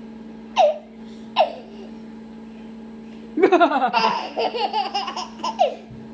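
A baby laughing: a long run of rapid, choppy laughs starting about halfway through, after two short high squeals that fall in pitch.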